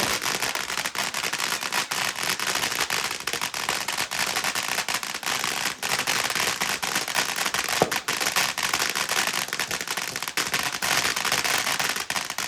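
Consumer fireworks going off in a dense, unbroken string of rapid crackling pops, with a brief whistle rising about eight seconds in.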